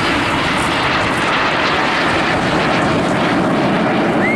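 Jet Provost T1 jet trainer in flight, its Armstrong Siddeley Viper turbojet making a steady, loud rushing noise.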